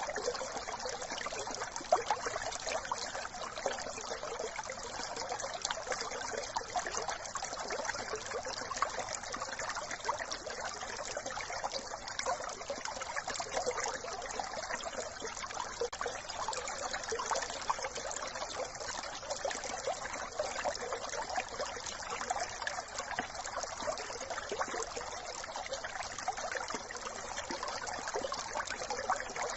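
A small brook trickling and babbling steadily over stones, in an even, unbroken rush of water.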